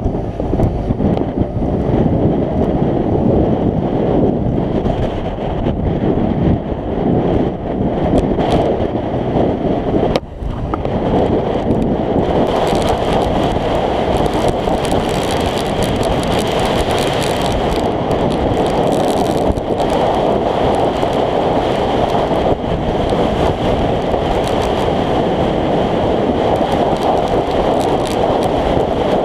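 Wind buffeting the action camera's microphone while riding a scooter, a loud steady rumbling rush that covers the engine. It dips briefly about ten seconds in, then comes back with more hiss on top.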